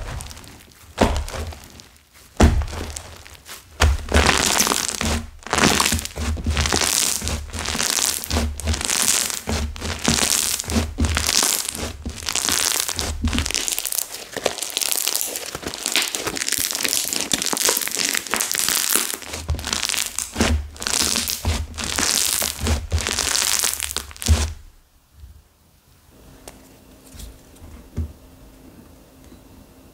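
Slime mixed with hard-set clay being squeezed and pressed, with rapid crackling and crunching as the stiff clay breaks up. The crackling stops about 24 seconds in, leaving only low room noise.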